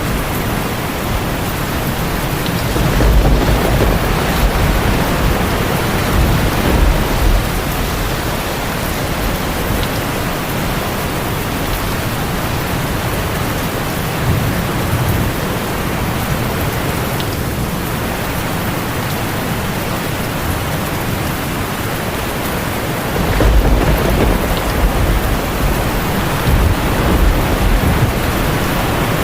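Heavy rain drumming steadily on a tin roof, with low rolls of thunder rumbling twice, about three seconds in and again near the end.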